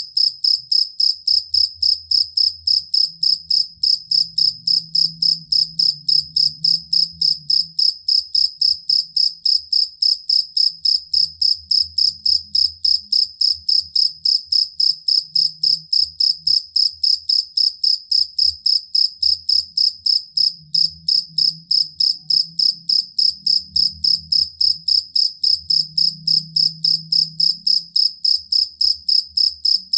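Field cricket (jangkrik kalung) chirping steadily, a high clear chirp repeated evenly about three times a second, with a faint low rumble underneath.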